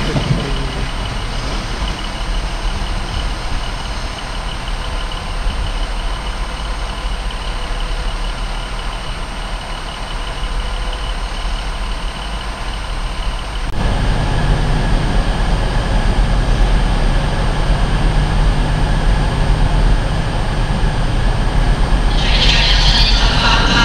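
Diesel multiple-unit trains running at a station with a steady engine noise. About two-thirds of the way through the engine sound turns abruptly louder and deeper, and near the end a brighter, busier noise joins it.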